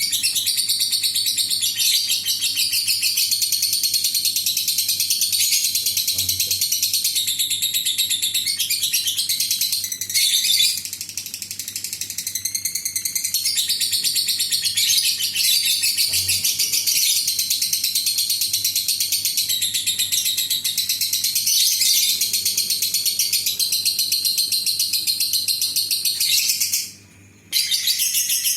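Lovebird in a long 'ngekek': continuous, very rapid high-pitched chattering that breaks off briefly near the end and then resumes.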